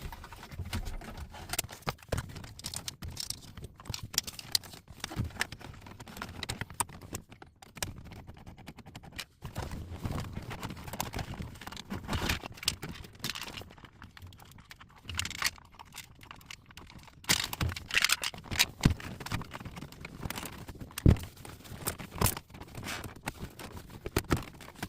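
Irregular clicks, knocks and plastic clatter of a car's interior trim being taken apart by hand with a Torx driver, as the center console is unscrewed and pried loose.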